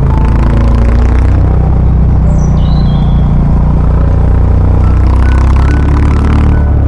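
Honda CB350RS's single-cylinder engine running on the move, with wind and road noise that swells briefly near the start and again near the end. A short falling chirp sounds about two and a half seconds in.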